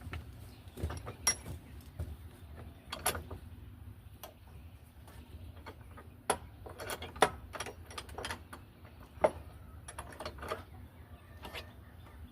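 Irregular clicks and knocks of tools and pieces of wood being handled during carpentry work, a dozen or so at uneven intervals over a steady low rumble.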